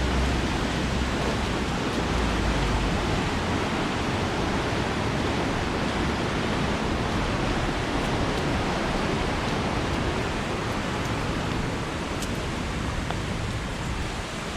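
Steady rushing of a clear river's flowing water, with a low rumble under it for the first few seconds.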